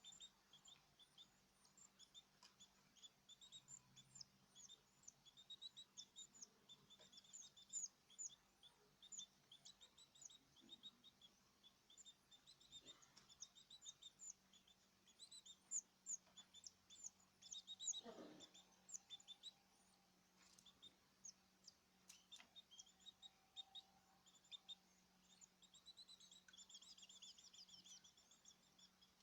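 Caged small birds chirping, faint: a steady run of short, high chirps throughout, with one lower sliding sound about two-thirds of the way through.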